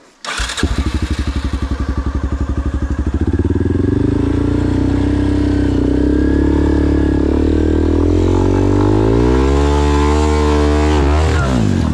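Adventure motorcycle engine starting with a sudden catch about half a second in and running steadily; its revs climb late on and then drop sharply just before the end.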